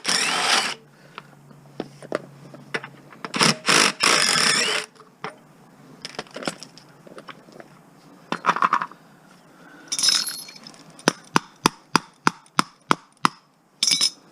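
Metal hand tools working on a lawn mower's wheel fastenings: two loud rattling bursts in the first few seconds, scattered knocks, then a run of sharp metallic clicks about four a second near the end.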